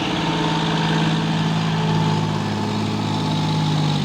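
Diesel tractor engine running steadily at low speed, an even, unchanging note.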